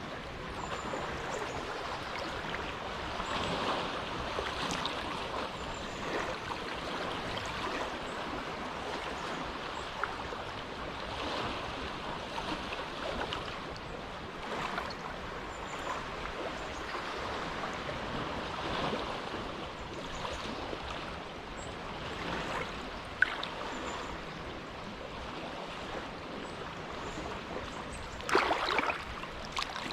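Small, quiet waves lapping at the shore of a calm inlet, a steady wash of water that swells and eases every few seconds. A louder splash of water comes near the end.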